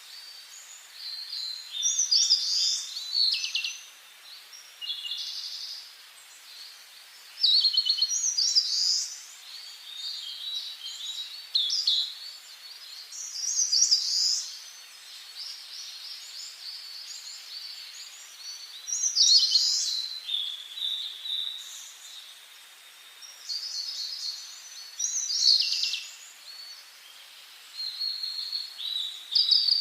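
Songbirds singing in a forest: bright, high twittering song phrases, each a couple of seconds long, repeat every few seconds over a faint steady hiss.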